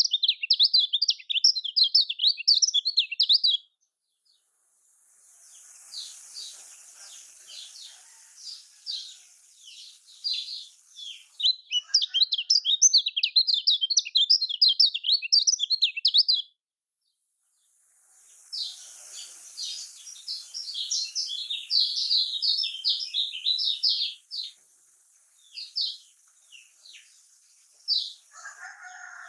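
Kecial kuning (a white-eye) singing a fast, high chattering song in long unbroken runs of rapid notes. The song stops dead twice, about four seconds in and again past the halfway point.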